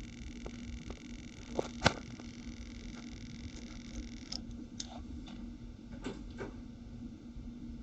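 Faint steady hum and hiss of room noise with scattered clicks, the loudest about two seconds in and a few more in the second half.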